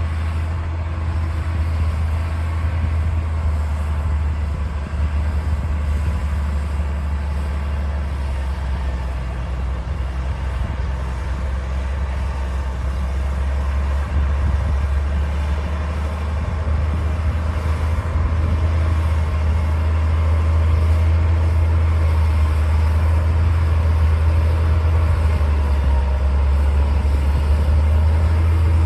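D60 bulldozer's diesel engine running steadily under work, a deep continuous drone that grows a little louder about two-thirds of the way through.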